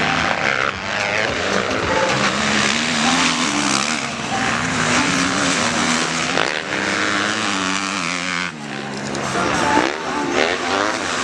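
Several motocross bikes' engines running and revving together, their pitches rising and falling as they ride.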